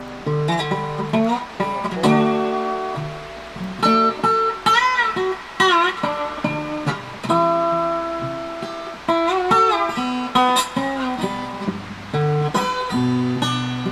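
Background music: solo guitar picking single notes and short strums, some notes bent and wavering in pitch.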